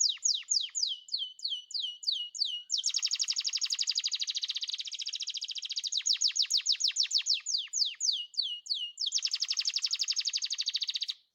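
A canary singing: a run of repeated downward-sweeping whistled notes, then a fast rolling trill, more sweeping notes, and a second fast trill that stops abruptly near the end.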